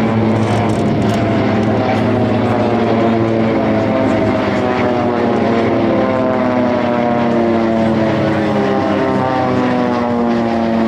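Pilatus PC-7 turboprop aircraft, each with a Pratt & Whitney Canada PT6A turboprop, flying past in a display with a steady propeller drone. Several tones slide down in pitch through the second half as the aircraft pass.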